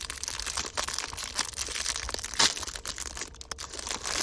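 Snack packets crinkling and crunching as they are handled, a dense irregular crackle with one sharper crack about two and a half seconds in.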